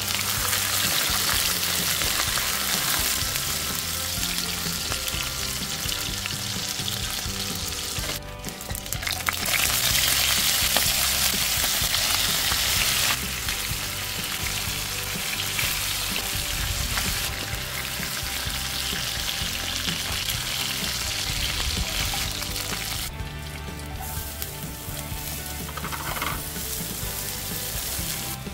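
Food sizzling in hot oil in a non-stick wok, stirred with a spatula: first chopped bell peppers, then chicken pieces, then minced garlic. The steady frying hiss breaks off briefly about 8 s and 23 s in, and is loudest just after the first break.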